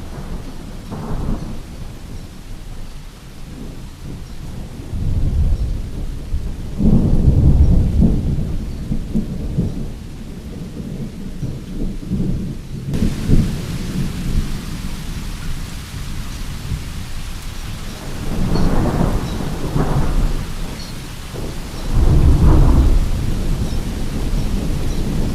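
Rain falling steadily with thunder rumbling in several long rolls, the loudest about a quarter of the way in and near the end. Halfway through the rain hiss suddenly grows louder.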